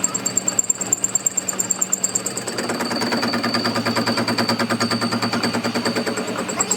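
Workshop machine running with a steady hum and a rapid, regular ticking that speeds up and grows denser a little before halfway through, then eases near the end.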